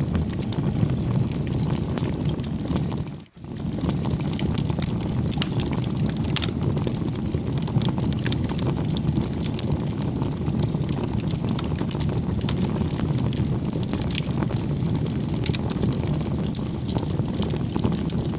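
Wood campfire burning: a steady low rush with frequent small crackles and pops. The sound drops out briefly about three seconds in, then resumes.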